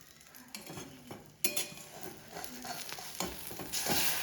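A few light knocks and clatters over a faint rustling hiss, like handling of dishes or utensils.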